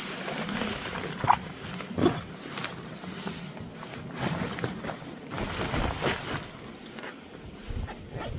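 Sleeping bag and bivy-cover fabric rustling and crinkling in irregular bursts, with scattered small clicks, as someone shifts about inside to settle in.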